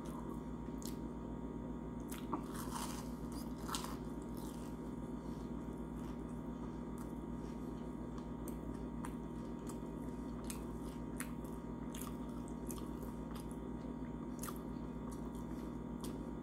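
A person chewing a fried onion ring, with faint scattered crunches and mouth clicks over a steady low hum.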